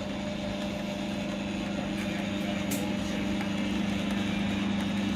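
SecuraLift ATA GDO-2V7 garage door opener running: a steady motor hum as it drives the door, growing slightly louder.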